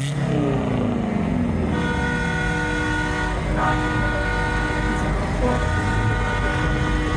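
A truck's multi-tone air horn blowing one long, steady chord from about two seconds in almost to the end, over the rumble of the truck's engine.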